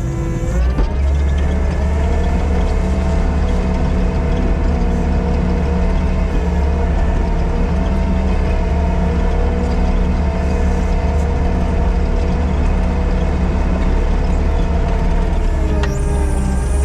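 Diesel engine of a piece of heavy earthmoving equipment running under throttle. It revs up about half a second in, holds steady, and drops back in pitch near the end.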